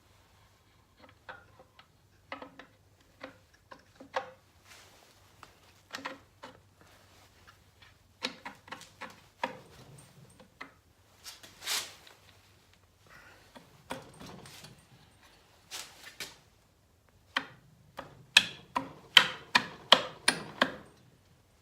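Irregular clicks, clinks and knocks of small metal parts and hand tools being handled, with a quicker run of sharper clicks near the end.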